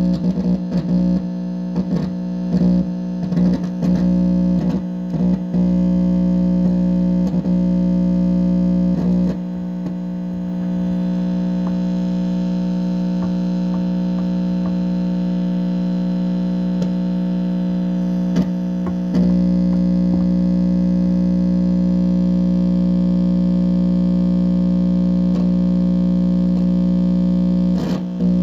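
Steady electrical buzz of several held tones from an amplified pickup, broken by crackles and brief dropouts in the first ten seconds and again near the end, with a smoother stretch in between. The owner takes it for a directed-energy signal coming from a neighbour's house.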